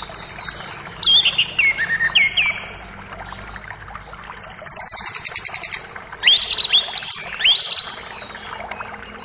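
Songbirds singing over the steady rush of a forest creek: repeated short high whistles, several whistles sliding down in pitch early on, a fast rattling trill about halfway through, and upward-sweeping notes soon after.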